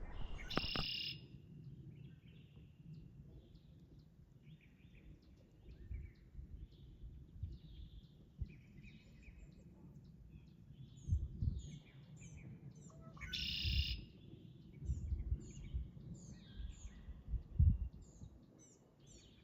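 Songbirds chirping and calling in short, scattered notes, with two louder calls, one just after the start and one about two-thirds of the way through, over intermittent low rumbling.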